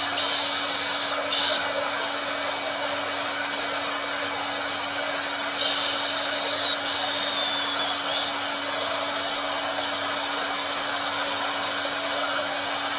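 Hair dryer running continuously: a steady hum under a hiss of blowing air. Brighter hissy swells come in briefly near the start and again from about six to eight seconds in.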